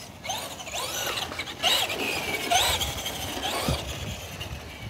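Electric RC truck's motor whining in short bursts, its pitch rising and falling again several times as it is driven back and forth. Wind rumble lies underneath.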